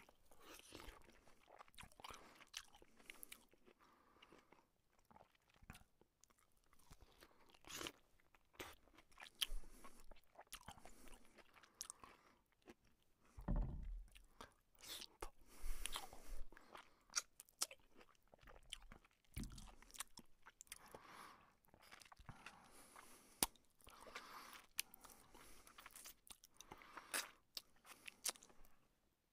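Close-miked eating sounds of a man chewing luchi and chicken curry: many short, irregular clicks of chewing, with a couple of louder low thumps near the middle.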